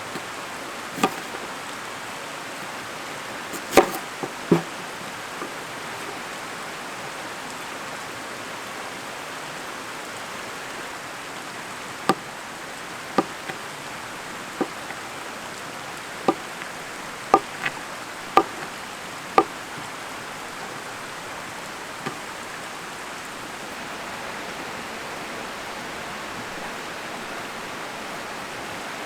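Mountain stream flowing steadily. About a dozen sharp clicks or knocks stand out over it, several near the start and a run of them between about 12 and 20 seconds in.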